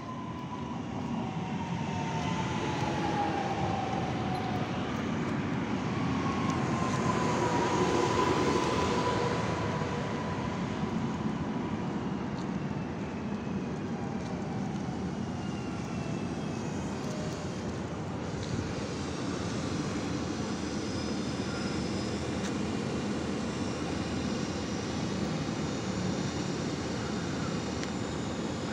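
Train passing: a continuous rumble with faint whining tones that slowly fall in pitch, loudest about eight seconds in.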